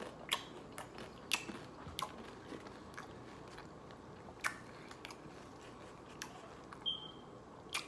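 Close-up eating sounds of a man chewing a mouthful of wet burrito, with scattered wet mouth clicks and smacks. There is a short squeak near the end.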